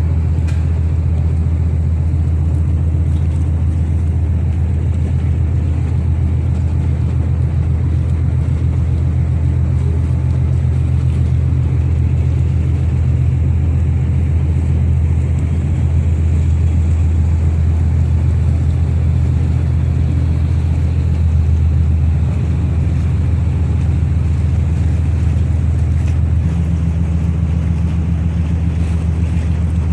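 Ferry's engines running with a steady, loud low drone.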